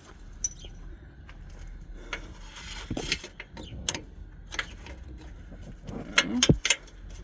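Scattered light metallic clicks and clinks of parts and tools being handled, with a louder cluster of knocks about six seconds in.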